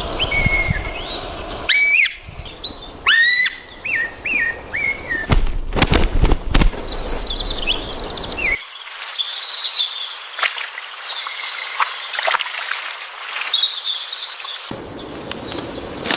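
Birds chirping and calling in many short notes, with a quick run of sharp knocks about five to six and a half seconds in.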